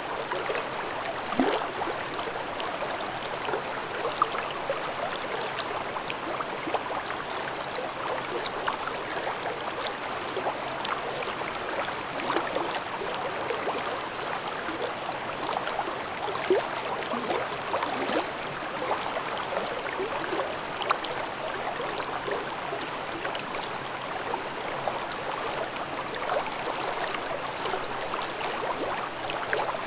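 Mountain stream babbling: a steady rush of running water with frequent small gurgles and a few brief louder splashes.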